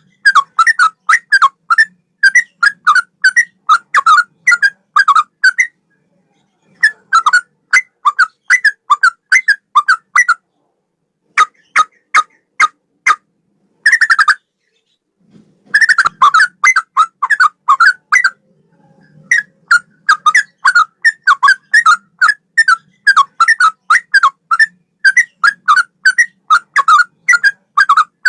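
Yellow-vented bulbul (trucukan) singing a loud, rapid run of short whistled notes, about three to four a second. The runs break off for a second or so several times. This is a bird-training song styled after a straw-headed bulbul's.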